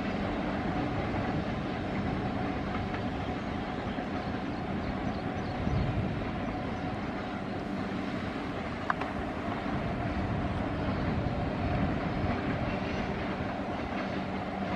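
Long freight train of covered wagons rolling along the ghat line, a steady rumble of wheels on rails with a faint, even hum running through it. A single short click about nine seconds in.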